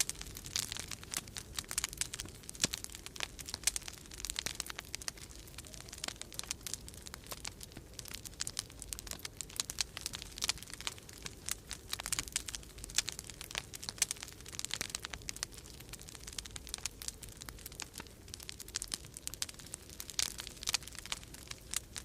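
Wood fire crackling in a fireplace: dense, irregular pops and snaps, with a steady low rumble of storm wind underneath.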